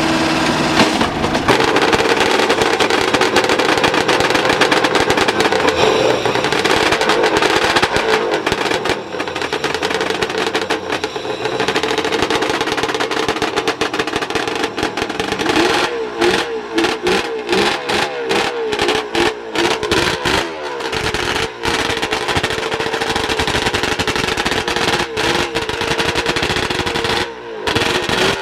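Harris Barton 750 Suzuki two-stroke triple race bike engine running, noisy and steady at first, then blipped repeatedly through the middle so the pitch rises and falls quickly several times before settling again.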